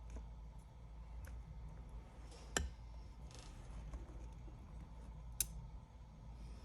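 Two sharp, small clicks about three seconds apart, from small repair tools handled on an opened tablet, over a low steady hum.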